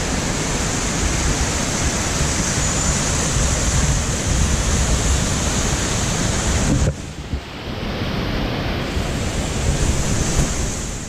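Waterfall rushing steadily, a loud even hiss of falling water, with gusty low rumbling of wind on the microphone; the sound drops away briefly about seven seconds in and then returns.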